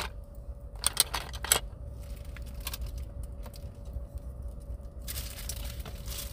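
A few light clicks and knocks of containers and dishes being handled, about a second in, then rustling in the last second or so, over a faint steady hum.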